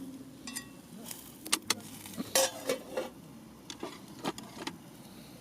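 A run of irregular light clicks and clinks from small hard objects, about a dozen, a few ringing briefly, loudest in the middle.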